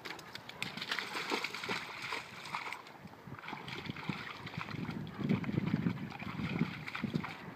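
Pond water sloshing and splashing as a dog wades and dives in it, in irregular bursts, heaviest about five seconds in.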